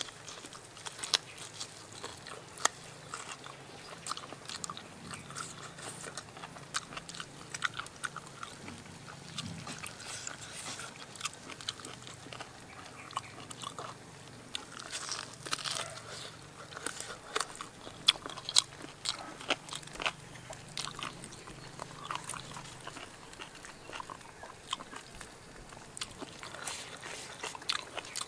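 Close-up eating of a cooked pig ear: bites tearing into the skin and crunching of the ear cartilage, with wet chewing, in irregular sharp clicks.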